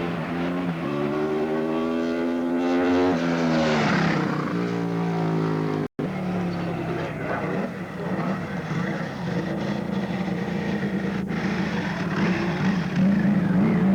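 Racing motorcycle engines at speed: one bike's engine note climbs as it accelerates, then drops sharply as it passes. After a short break about six seconds in, another engine runs with a steadier note.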